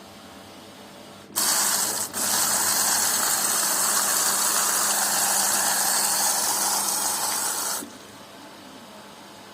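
Water rushing into a Zanussi washing machine through its inlet valve as it fills. It starts abruptly about a second in, breaks off for a moment, then runs evenly for about six seconds and cuts off sharply.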